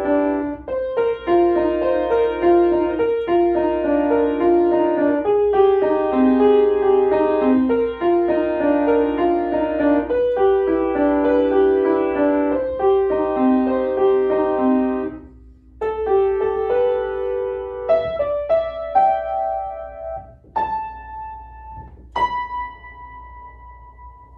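Solo piano playing a steady run of notes in the middle register. The notes break off briefly about fifteen seconds in, then slower, sparser notes follow, ending with two last notes that ring out and fade.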